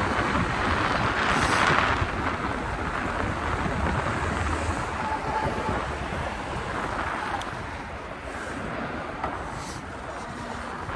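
Wind buffeting the microphone of a moving electric bike, with road and traffic noise underneath; the rush swells louder about a second and a half in.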